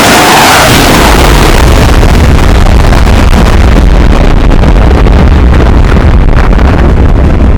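Wind rushing and buffeting over the microphone of a skier going downhill at speed through a blizzard: a loud, steady rush with a heavy low rumble that sets in about half a second in.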